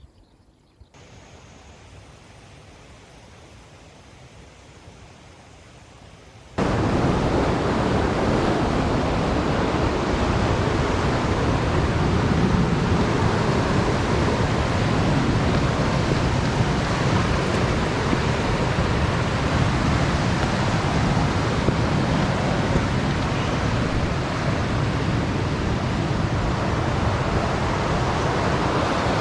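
Swollen mountain stream rushing, a steady full-range water noise. It is faint at first, then cuts in much louder about six seconds in, as if close to fast-flowing water.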